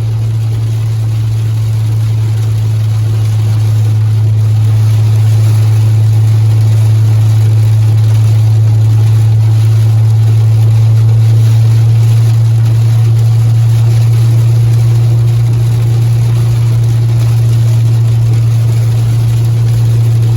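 Steady low drone inside a moving car's cabin, with a hiss of rain and wet road under it.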